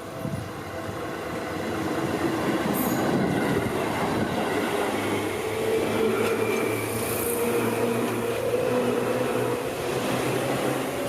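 Seibu Ikebukuro Line electric train passing, its rumble building over the first couple of seconds, then holding steady with a humming tone from about halfway through.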